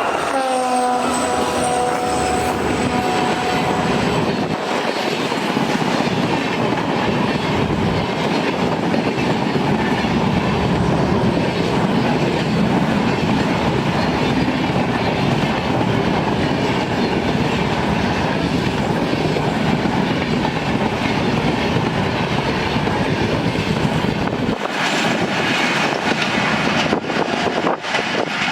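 Indian Railways express train passing close by: the horn sounds as the locomotive goes past, its pitch dropping slightly, then the coaches roll by with a steady clickety-clack rumble for over twenty seconds.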